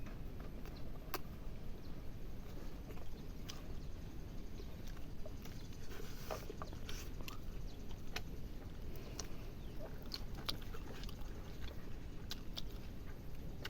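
A person eating: scattered small clicks and smacks of chewing, one or two a second, over a steady low background rumble.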